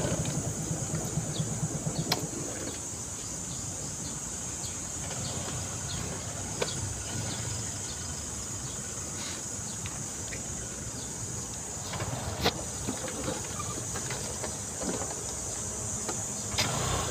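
A small underbone motorcycle's engine idling, switched off with a click about two seconds in. A steady high insect drone carries on after that, with a few scattered clicks and knocks.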